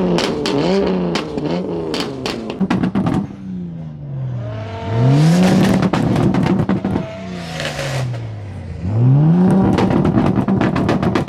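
A car engine revved hard in place: quick blips with sharp exhaust crackles and pops, then twice revved up to the top and held flat there for about two seconds before dropping back.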